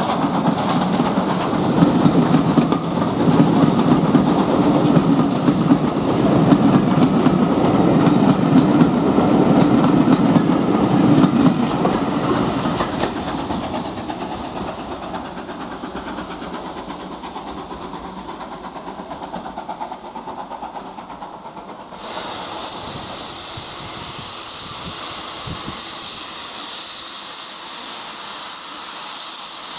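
Steam train running past with rumble and clicking over the rail joints, dying away over about ten seconds. About 22 seconds in, a steady hiss of escaping steam from a steam locomotive starts suddenly and carries on.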